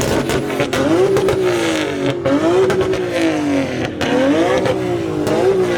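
A car engine revved repeatedly: the pitch climbs quickly and falls back, about four times.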